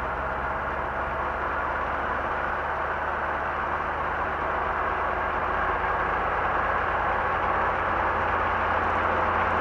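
Robinson R22 helicopter's piston engine and rotor running steadily, with a low hum under a broad whir, growing gradually louder. The governor is switched off, so engine and rotor speed are being held by hand on the throttle.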